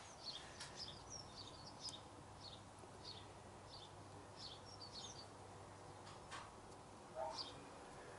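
Faint small-bird chirping: short, high calls repeating about twice a second, with a few light taps mixed in.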